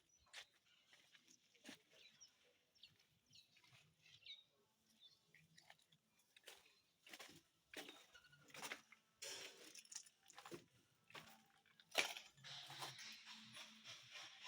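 Near silence broken by faint, irregular crunches and clicks, coming more often and a little louder in the second half.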